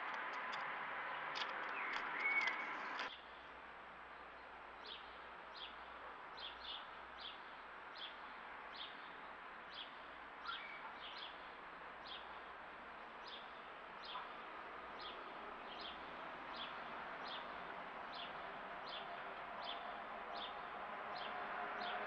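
A small bird calling a short, high chirp over and over, about twice a second, faint against a background hiss. For the first three seconds the background is louder and holds one brief chirp, then it drops suddenly.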